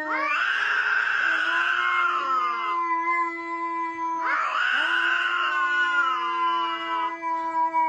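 Loud screaming, three drawn-out screams about four seconds apart, each lasting a couple of seconds, over a held musical tone.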